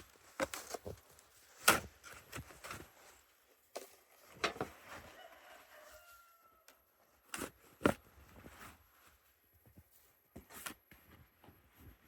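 Snow shovel chopping and scraping into heavy, wet, melting snow in irregular strokes, with footsteps crunching between them.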